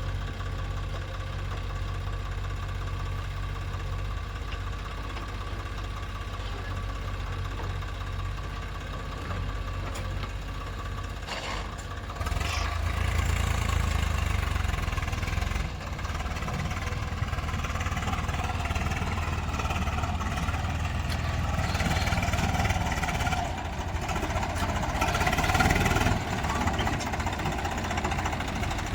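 Heavy diesel engine of the earth-moving machinery running steadily, working harder and louder about twelve seconds in, with short rushing noises around then and again near the end.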